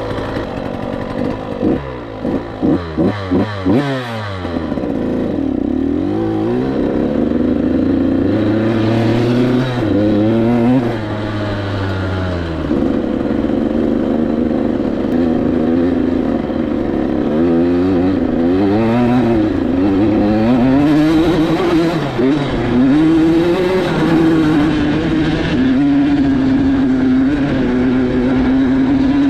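KTM 85SX's 85cc single-cylinder two-stroke engine revving up and down as the dirt bike is ridden, with a run of quick throttle blips about two to four seconds in and a steadier note near the end.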